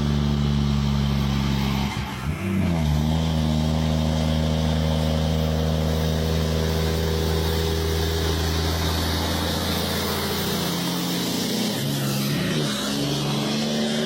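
Kenworth W900 semi truck's diesel engine running steadily under load. Its pitch dips briefly and recovers twice, about two seconds in and again near the end.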